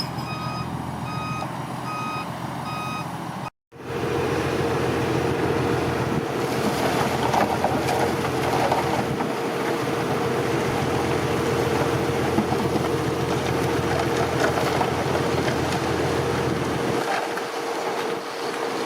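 Reversing alarm of heavy earthmoving machinery beeping steadily over a diesel engine. After a cut about three and a half seconds in, a heavy diesel engine runs louder and steadily under load, with a constant high whine.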